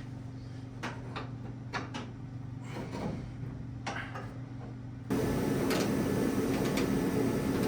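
Sheet-metal car body panel being handled and fitted: scattered knocks and clanks over a steady low hum. About five seconds in, the sound jumps to a louder steady hum with a few more knocks.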